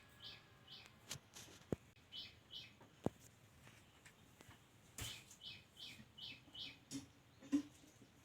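A small bird chirping repeatedly, short high chirps in runs of two to four with pauses between, over a few sharp knocks and taps.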